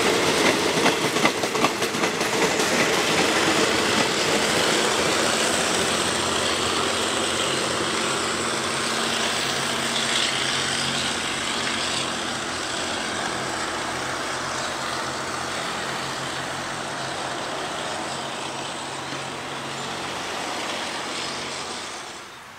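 Diesel train running along the station tracks, with sharp wheel clacks in the first couple of seconds over a steady engine hum and rolling noise. The sound slowly fades as the train moves away.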